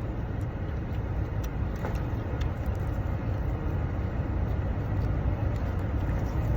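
Steady low rumble of a running vehicle, with a few faint clicks over it.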